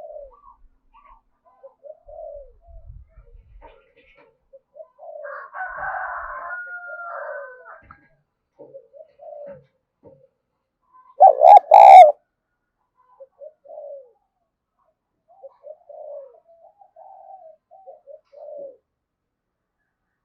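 Spotted doves cooing: a run of short coos throughout, with a rougher, noisier stretch of a couple of seconds about a quarter of the way in. About halfway through comes one brief, much louder call in three quick parts.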